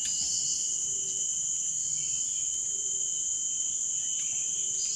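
Steady, shrill chorus of forest insects, several high tones held at once without a break.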